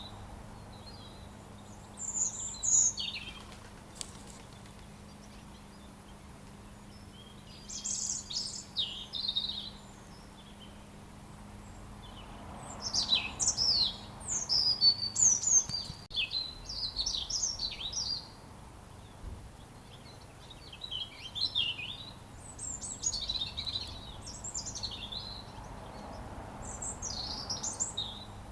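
Robin singing: phrases of quick, high chirps and sweeps, each bout a second to a few seconds long with pauses between, the longest bout near the middle.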